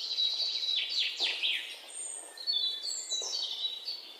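Birds chirping and singing: high, overlapping chirps and trills, with a few quick down-sweeping notes about a second in.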